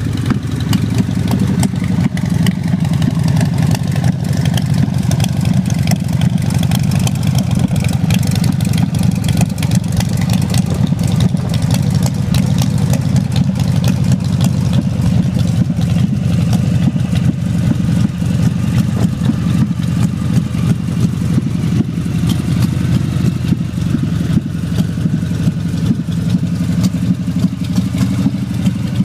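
2005 American Ironhorse LSC motorcycle's V-twin engine idling steadily through aftermarket FSD exhaust pipes, a loud, even, low exhaust beat.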